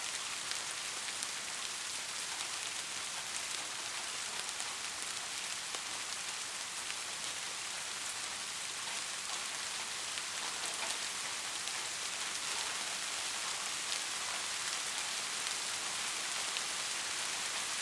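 Steady rain: a dense, even hiss with individual drops ticking through it.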